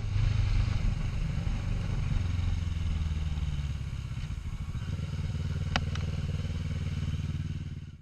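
A vehicle engine running with a steady low rumble, and two sharp clicks close together about six seconds in.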